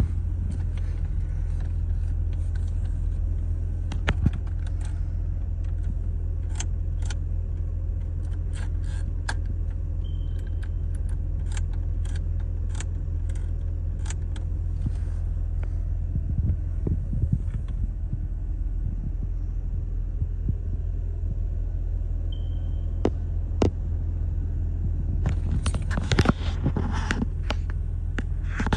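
Nissan Skyline R32 GTS-t Type M's RB20DET turbo straight-six idling steadily, heard from inside the cabin. Dashboard switches click as they are pressed, with two short beeps, and there is a flurry of clattering near the end.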